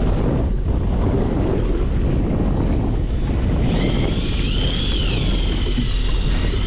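Wind buffeting the microphone over the steady low rumble and wash of a fishing boat at sea. A little over halfway through, a high whine that wavers up and down in pitch joins in.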